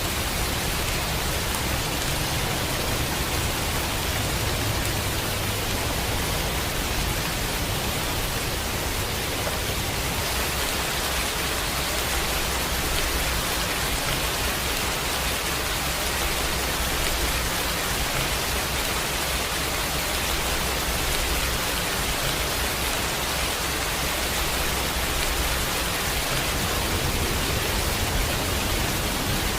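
Steady, even hiss of falling water, unbroken throughout, with a low rumble underneath.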